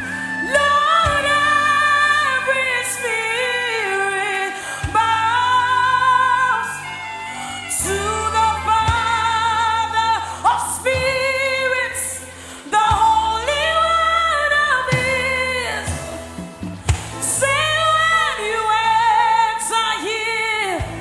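Gospel worship singing: a solo voice sings long, wavering held phrases over a steady held instrumental backing.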